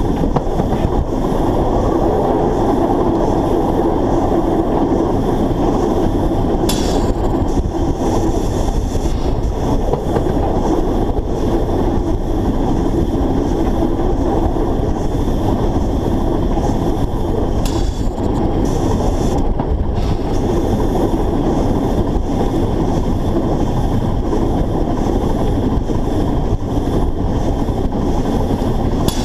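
Narrow-gauge steam locomotive running along the line, heard from a camera mounted on the locomotive: a loud, steady rumble of running gear and rail noise. Two short high-pitched bursts come about seven and eighteen seconds in.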